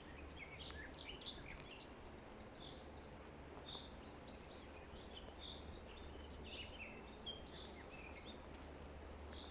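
Several small songbirds chirping and trilling in a forest, with short high calls coming in quick clusters over a faint steady background hiss.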